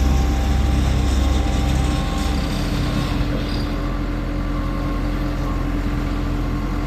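Heavy diesel paving machinery running steadily, with a deep rumble that eases about two and a half seconds in.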